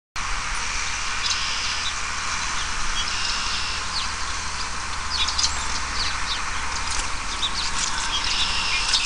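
Outdoor ambience of birds chirping in short repeated phrases over a steady hiss and a low rumble, starting abruptly.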